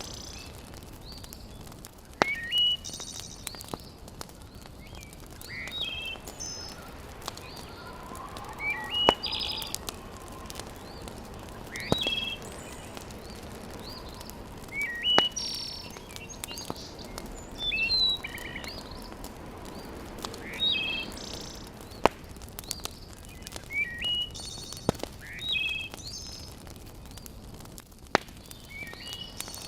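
Birds chirping again and again, short rising calls in little groups every couple of seconds, over scattered sharp pops and crackles of a wood fire in a fireplace.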